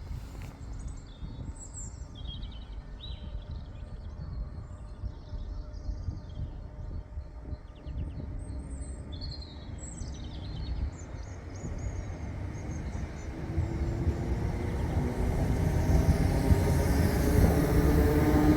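Small birds chirping over a low outdoor rumble, then a train approaching and growing steadily louder over the last few seconds, with a steady low tone rising out of the noise.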